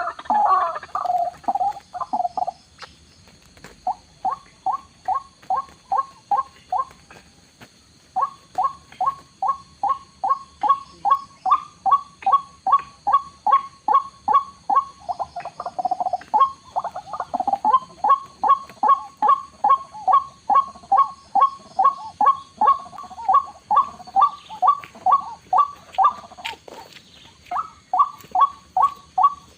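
White-breasted waterhen (ruak-ruak) calling: a long run of loud, evenly spaced 'kwak' notes, about three a second, with short breaks near the start and near the end.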